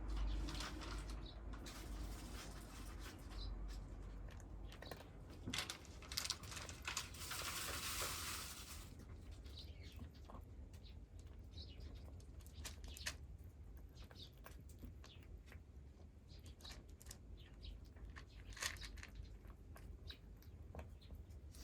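Scattered small crunches and clicks of cats eating dry food, with a louder rustle lasting about two seconds around seven seconds in.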